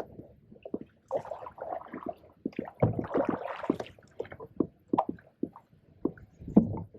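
Canoe paddles stroking and backpaddling in shallow pond water: irregular splashes and gurgles, with short knocks.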